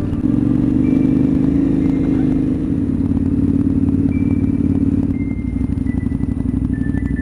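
Motorcycle engine running steadily under way, with a fast, even pulsing, alongside a few thin held high tones.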